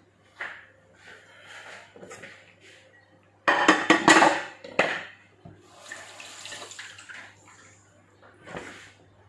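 Kitchen tap water running in a short loud gush about three and a half seconds in, then a fainter run of water, with scattered small knocks of kitchen handling around it.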